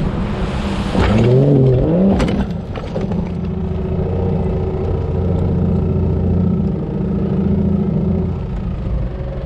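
Jeep engine running steadily, with a brief rise and fall in pitch about a second in and a few sharp clacks just after two seconds.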